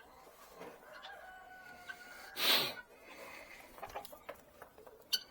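A rooster crowing: a drawn-out pitched call, with a short, harsh, loud burst about halfway through.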